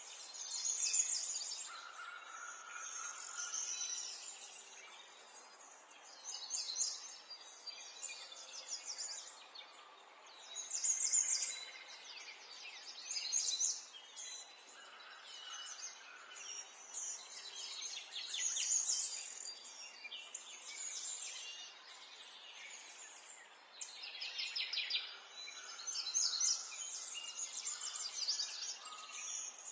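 Several wild songbirds singing, with many short high phrases and rapid trills overlapping one after another, over a faint steady background hiss.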